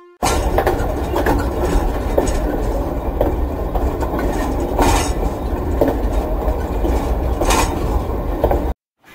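Train running on rails: a steady heavy rumble with irregular sharp clicks and knocks from the wheels, cutting off abruptly near the end.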